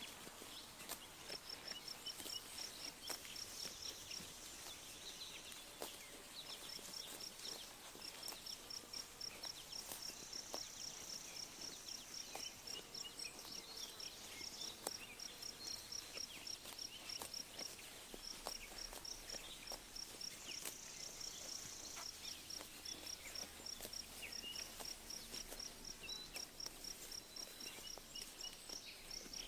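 An insect chirping in a high, even series of pulses, several a second, in long runs broken by short pauses. Scattered soft clicks and a few brief bird chirps sound underneath in a quiet pasture ambience.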